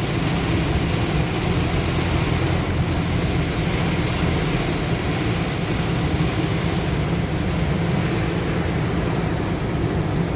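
Heavy rain on a truck, heard from inside the cab while driving: a steady hiss of rain and tyre spray over a low, steady engine and road rumble.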